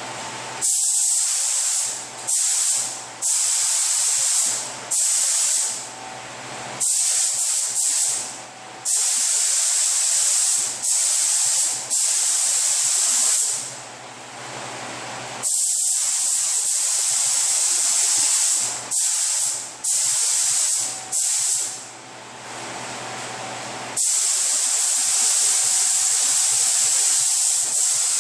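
Pneumatic paint spray gun spraying paint onto car body-kit panels in repeated short passes of hissing air, each stopped and started at the trigger, with a longer continuous pass near the end. A fainter steady hum runs between passes.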